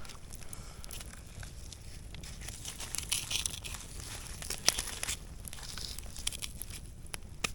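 Rustling and crinkling handling noise, broken by scattered sharp clicks.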